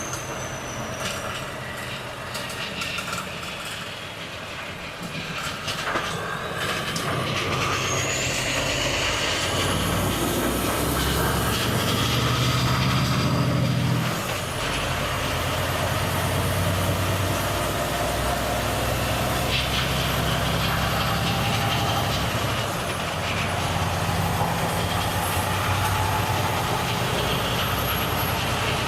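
Volvo FH truck's straight-six diesel engine pulling harder and gaining speed, with a high turbo whistle rising about eight seconds in. The engine note drops briefly near the middle and again about two-thirds through, like gear changes. The first few seconds are quieter, with scattered clicks.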